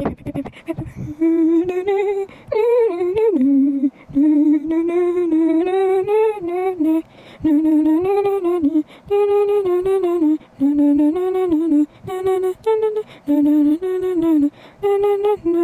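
A high voice humming a wordless tune in a long run of short held notes, with brief breaks between them.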